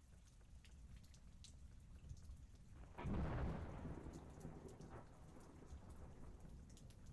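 Steady heavy rain with scattered drops striking nearby surfaces, and a peal of thunder breaking about three seconds in, a deep rumble that rolls off over the next few seconds.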